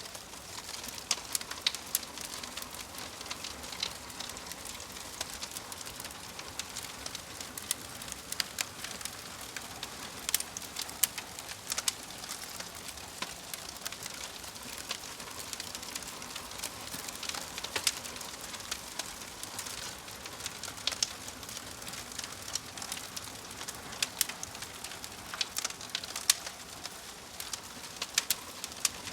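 Wood fire crackling, with many sharp, irregular pops and snaps over a steady hiss.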